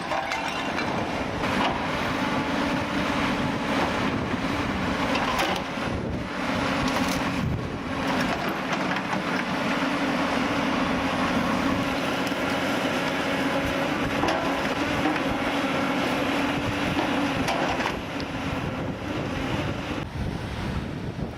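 Heavy demolition machinery working on a building: an engine running steadily under load, with crunching and scraping of rubble and a few sharper cracks. The engine note eases off about eighteen seconds in.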